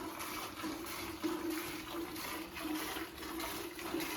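Hand milking into a bucket: milk squirting from the cow's teats in quick alternating streams, about three to four squirts a second, hissing into the milk already in the pail.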